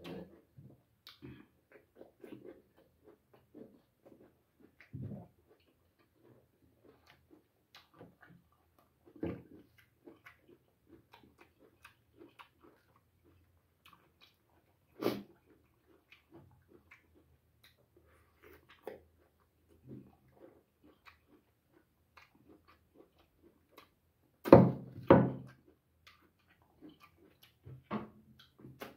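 A person chewing and smacking their lips while eating boiled goat head meat by hand, with scattered small clicks and smacks throughout, a sharper click about halfway, and two louder sounds close together near the end.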